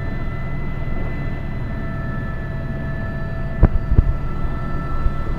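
Airbus H125 helicopter in flight: its single turboshaft engine and main rotor run steadily, a low rotor thrum under a held turbine whine. Two short low thumps come close together about two thirds of the way in.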